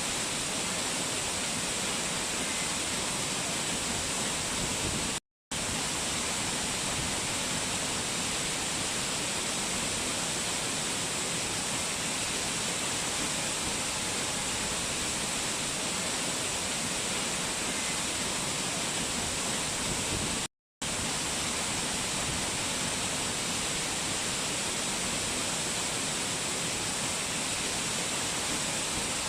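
Rushing water from a mountain waterfall or stream: a steady, dense hiss. It cuts out to silence for a split second twice, about five seconds in and about twenty seconds in.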